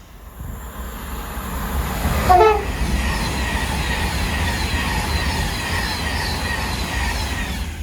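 A train passing through the station, growing louder over the first couple of seconds. It gives a short horn toot about two seconds in, followed by the steady rumble and clatter of its wheels on the track.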